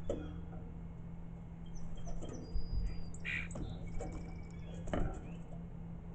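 Small birds chirping and whistling in short, scattered calls, over a steady low hum with a few soft low thumps.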